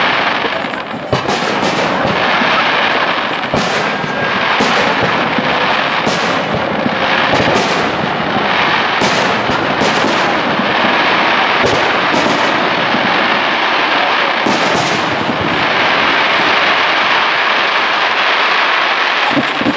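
Aerial fireworks display: shells burst with sharp bangs at irregular intervals over a dense, continuous crackle of the bursting stars.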